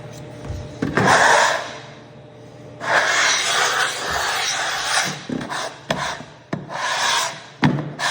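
Applicator rubbing hard wax oil into freshly sanded oak flooring, in scrubbing strokes: a short stroke about a second in, then longer strokes from about three seconds in, with a sharp knock near the end.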